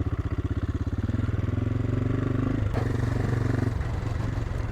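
AJP PR7's single-cylinder engine running at low revs under way, with a quick pulsing beat. About two and a half seconds in there is a short click and the engine note changes.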